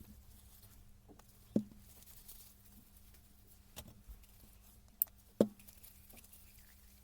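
A few separate sharp clicks and knocks of tools and parts being handled at a workbench, the loudest about a second and a half in and near five and a half seconds, over a faint steady hum.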